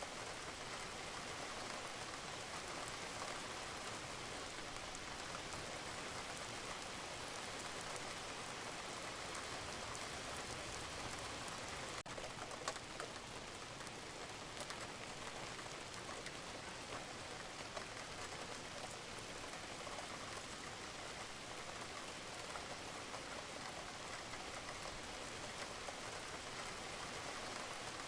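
Steady rain falling on a roof, with fine ticks of individual drops through it. About twelve seconds in, the sound dips for a moment and one louder tick follows.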